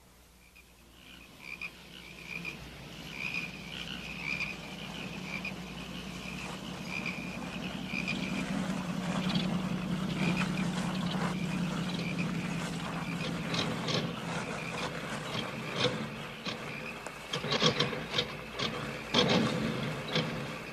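A car engine running as the car drives close, over a chirping night chorus. Near the end the engine coughs in a run of sharp knocks as the car runs out of gas.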